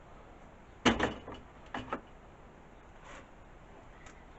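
Sharp metallic knocks and clinks of hand tools and engine parts being handled: two close pairs of clicks about a second apart, then a few fainter ticks.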